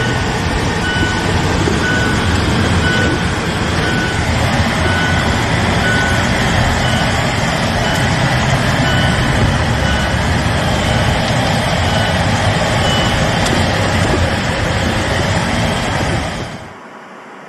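Loud, steady vehicle noise with a short electronic beep repeating at an even pace, typical of a reversing alarm. It stops abruptly near the end.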